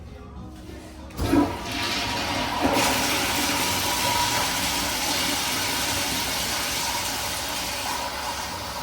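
Kohler toilet flushing: a sudden loud start about a second in, a second surge soon after, then a steady rush of water that eases off near the end.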